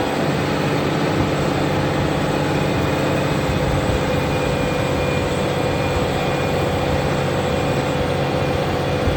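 Large Fendt tractor's diesel engine running steadily under load while ploughing, with a constant drone and rumble.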